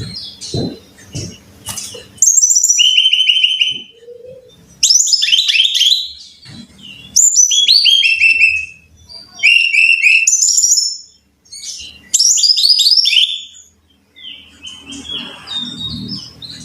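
Brown-chested jungle flycatcher singing: about five loud phrases a second or so apart, each a quick run of high notes falling in pitch, with softer twittering near the end. A few soft knocks come in the first two seconds.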